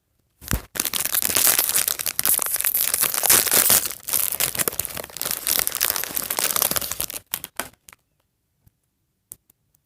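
Plastic toy packaging being torn open and crinkled by hand to get at a doll, a dense crackling that lasts about seven seconds and then stops, leaving a few faint ticks.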